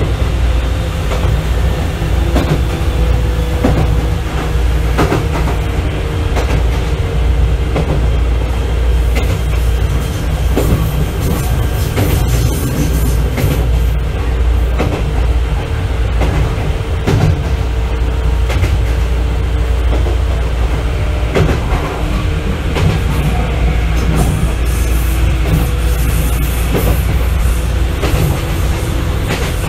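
Izukyu 8000 series (ex-Tokyu 8000 series) motor car KuMoHa 8157 running between stations, heard from inside the car: loud, steady running noise with a constant hum, and wheels clacking over rail joints every second or two.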